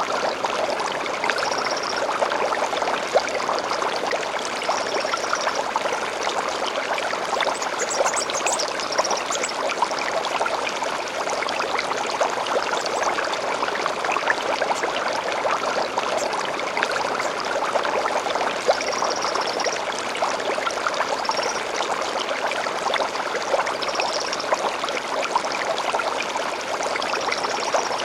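Shallow stream babbling and splashing steadily, with short high bird chirps over it every few seconds and a brief rising trill about eight seconds in.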